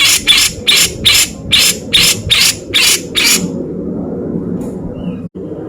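Grey-cheeked bulbul (cucak jenggot) singing a fast run of harsh, rasping notes, about three a second, that stops about three seconds in.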